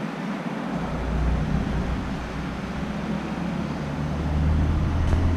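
A train approaching the station: a low, steady rumble that sets in about a second in and grows louder.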